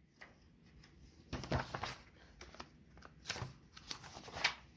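Paper rustling as a picture book's pages are handled and turned, in a few short bursts, the loudest about a second and a half in.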